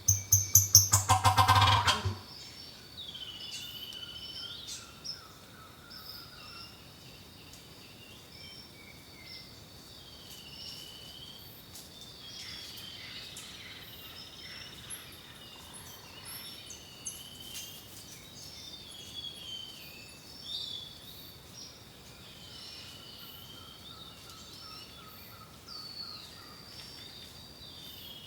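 Wild birds singing outdoors, with repeated curved whistled phrases over a steady thin high tone and, now and then, a soft even trill. A loud, rapid rattling call fills the first two seconds.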